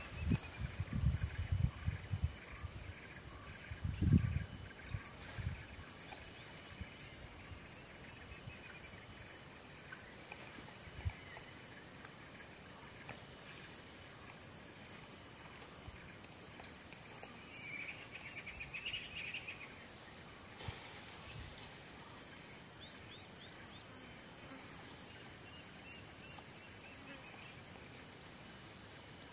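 Steady, high-pitched drone of insects in tropical forest, with a few low thumps in the first six seconds and a short burst of bird chirps a little past the middle.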